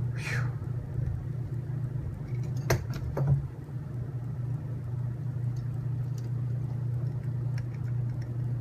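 A steady low hum throughout, with an exhaled "whew" at the start. About three seconds in, two sharp clicks and a soft low thump as small robot-kit parts and screws are handled.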